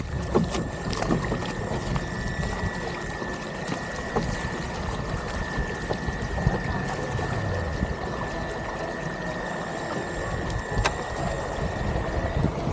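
Water and wind noise on the microphone around a boat on open water, with a steady high-pitched whine that cuts off near the end.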